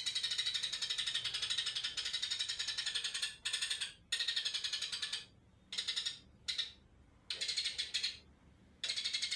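White-rumped shama (murai batu) giving its 'trotol' song: fast, rattling trills of rapid repeated notes, one long run followed by several shorter bursts with brief pauses between them.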